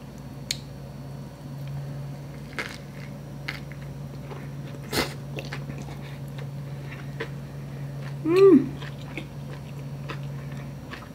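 A mouthful of inari sushi, a fried tofu pouch stuffed with rice and topped with kimchi, being bitten and chewed close to the microphone, with small crunches and wet mouth clicks, one sharper about halfway. About eight seconds in the eater gives a brief hummed 'mm' that rises and falls. A steady low hum runs underneath.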